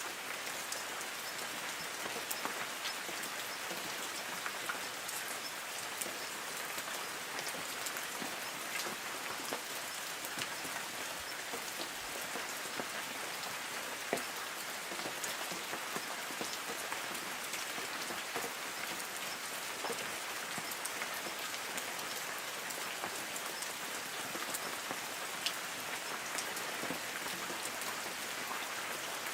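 Light rain falling on forest trees: a steady hiss of drops on leaves, with scattered sharper single drips.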